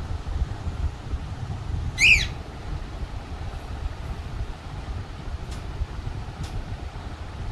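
A pet baby parrot gives one short, loud squawk about two seconds in, then a couple of faint short calls, over a steady low rumble.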